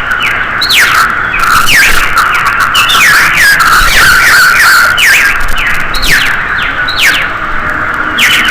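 Dawn chorus of many birds calling at once: loud, overlapping calls, each a quick downward-sliding note, several a second.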